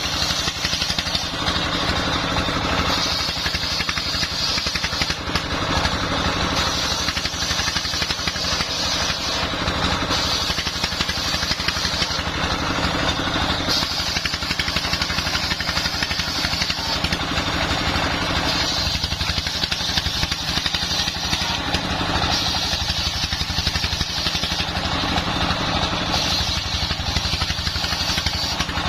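Single-cylinder Dongfeng 24 hp diesel engine running steadily under load, driving a homemade circular sawmill. A brighter hissing whine from the saw cutting timber rises and falls every few seconds over the engine's beat.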